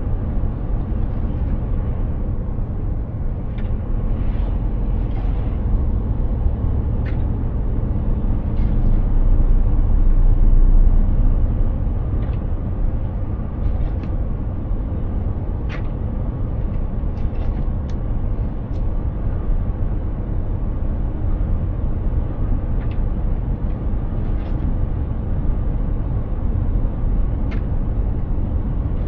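Mercedes-Benz Actros 2763 heavy truck driving, a steady low diesel rumble mixed with road noise that swells louder for a couple of seconds about ten seconds in, with scattered faint ticks.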